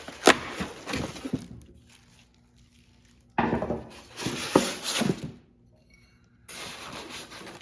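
Hard sander parts clinking and knocking together as they are handled and lifted out of their box, in two clusters of sharp clatter. Near the end comes a brief hiss-like rustling noise.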